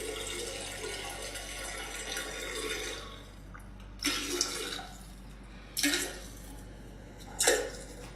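Water running, with a steady hiss for the first few seconds, then three short louder splashy bursts about four, six and seven and a half seconds in.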